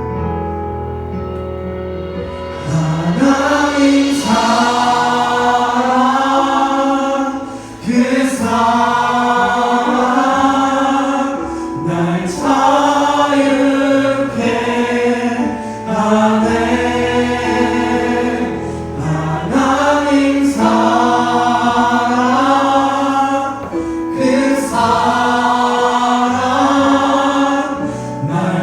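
Youth praise team singing a worship song together over band accompaniment with sustained low bass notes. The voices come in about two and a half seconds in, after a held chord.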